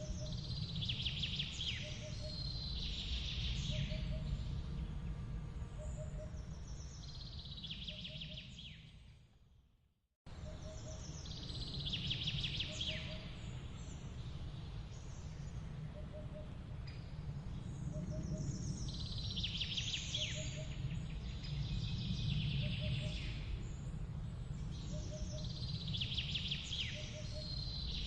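Woodland ambience: songbirds singing repeated chirping phrases over a steady low rumble, with a soft short note repeating about once a second. It fades out about nine seconds in and cuts straight back in a moment later.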